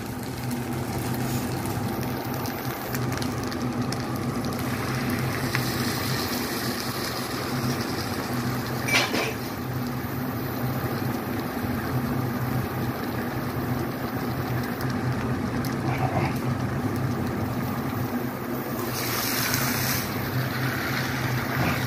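Rice frying in a nonstick wok over a steady low hum, with a spoon stirring it; a single sharp click about nine seconds in.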